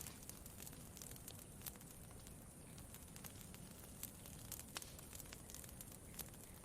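Campfire crackling faintly: irregular sharp pops and snaps, a few of them louder, over a soft low rumble.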